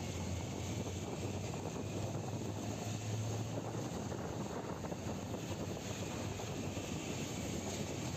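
Motorcycle engine running steadily under way, with wind rushing over the microphone; its low hum swells briefly about three seconds in.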